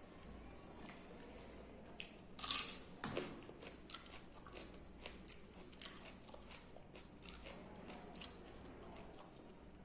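A person eating close to the microphone: biting and chewing, with scattered short crunches and clicks, the loudest about two and a half seconds in.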